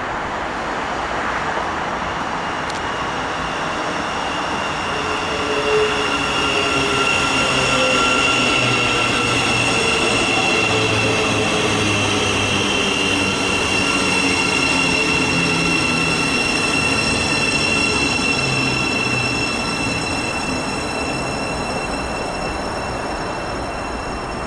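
Thameslink Class 700 electric multiple unit moving at the platform, its running noise carrying several steady high-pitched whining or squealing tones over a low rumble. It grows louder a few seconds in and fades off near the end.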